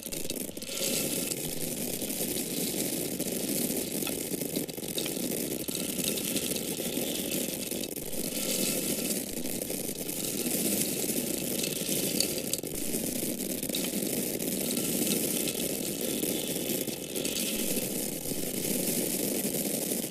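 Dried grains, such as corn kernels, pouring in a steady continuous stream with a dense rattle of many small impacts.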